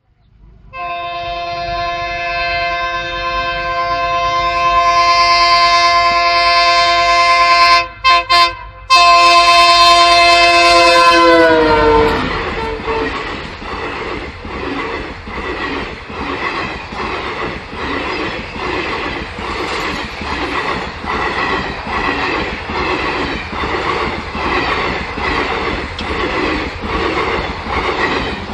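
A train horn sounds a long, loud, steady chord that falls in pitch about twelve seconds in. It gives way to the steady rhythmic clickety-clack of train wheels on rails.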